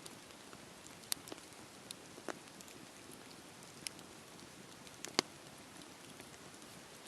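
Campfire burning: a soft steady hiss with scattered sharp crackles and pops, the loudest pop about five seconds in.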